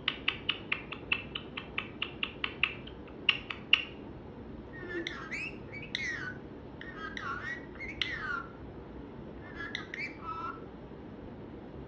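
Indian ringneck parakeet calling: a fast run of short, even chirps, about four or five a second, for nearly four seconds, then a handful of separate whistled calls that swoop up and fall away.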